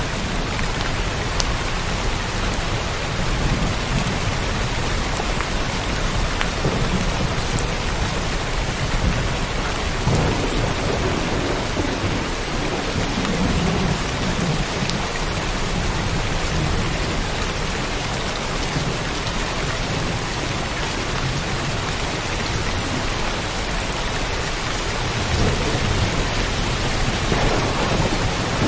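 Steady rain pouring, with low rolls of thunder swelling up about a third of the way in and again near the end.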